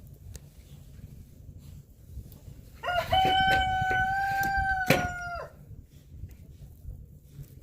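A rooster crows once: one call of about two and a half seconds, held on one pitch with a quick rise at the start and a drop at the end. A few sharp knocks sound during the crow, the loudest near its end.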